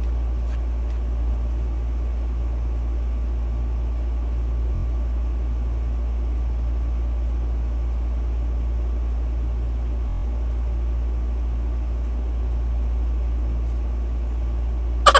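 A steady low rumbling hum with no distinct events, broken only by brief dips. A sudden loud, rapidly pulsing sound starts right at the end.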